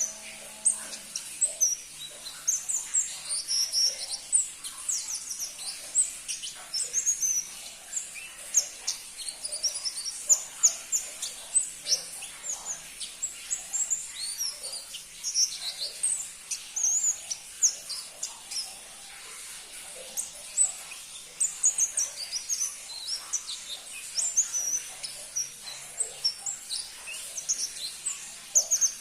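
Pentis pelangi, a small flowerpecker, chirping: a fast, unbroken run of very short, high-pitched notes, with a brief lull about two-thirds of the way in.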